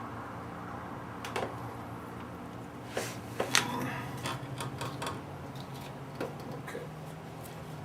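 Scattered clicks and light knocks of small metal parts and tools being handled on a workbench, over a steady low hum.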